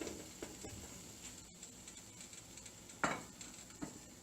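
Frozen paneer cubes frying in a little oil in a pan: a faint sizzle with small knocks of the cubes and utensil against the pan, one louder knock about three seconds in.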